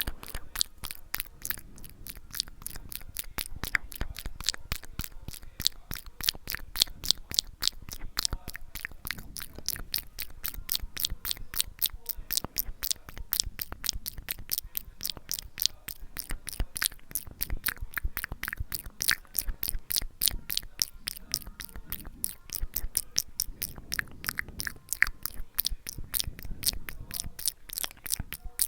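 ASMR mouth sounds: a steady stream of short wet clicks and smacks from tongue and lips, several a second.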